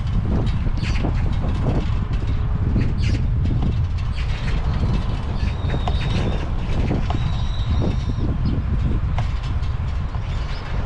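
Wind rumbling on the microphone of a moving bicycle, with small clicks and rattles from the bike as it rolls along. Two brief high tones sound in the middle.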